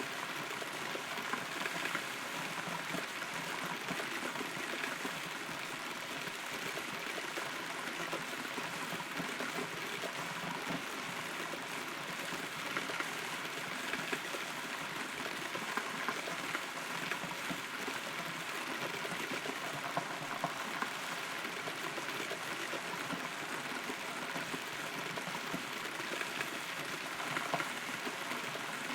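Steady rain falling, heard from inside a hollow rotten tree trunk, with occasional louder drops standing out from the patter.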